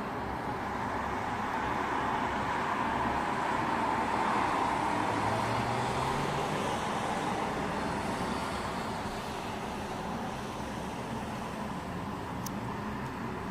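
Steady rain hiss during a thunderstorm, with a vehicle passing on the wet road: the hiss of tyres on wet tarmac swells over several seconds, peaks midway, then fades.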